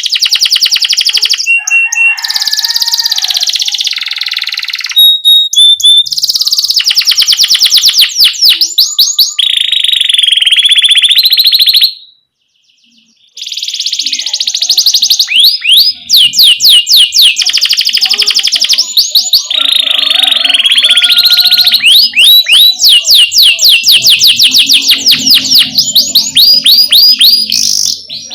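Domestic canary singing: loud, high-pitched song of fast repeated chirps and rolling trills. The song breaks off for about a second and a half about halfway through.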